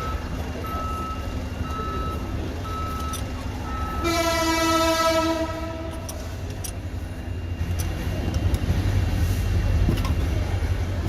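A vehicle horn sounds once for about two seconds over a steady low engine rumble. Before it, a reversing alarm beeps regularly, a little faster than once a second.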